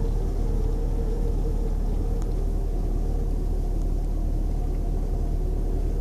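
Steady low engine rumble, like a vehicle idling, with a faint steady hum above it.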